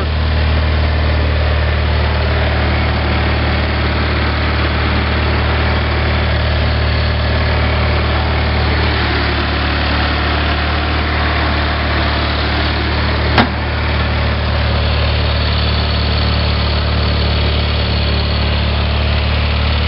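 A Sears Craftsman GT 6000 garden tractor's 18 hp Kohler opposed-twin vertical-shaft engine idling steadily, already warm rather than a cold start. A single sharp click sounds about thirteen seconds in.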